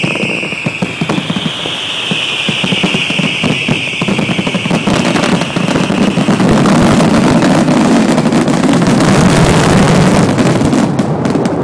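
Strings of firecrackers and fireworks going off in a dense, rapid crackle, with a high wavering whistle over the first half that stops about six seconds in. The crackle then grows louder and denser before thinning to scattered pops near the end.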